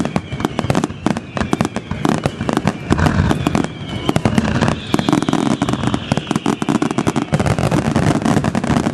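Fireworks display: a dense, continuous barrage of bangs and crackling pops, many per second, with a faint whistle rising and falling in pitch through the middle.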